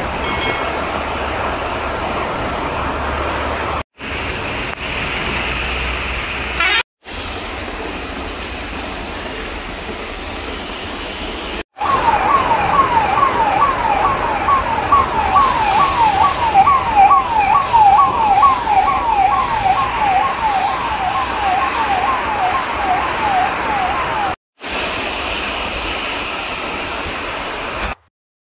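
Heavy rain pouring steadily on a road, broken briefly at a few cuts. About twelve seconds in, an ambulance siren starts a fast yelp of about three sweeps a second over the rain. It is the loudest sound and runs for about twelve seconds before cutting off.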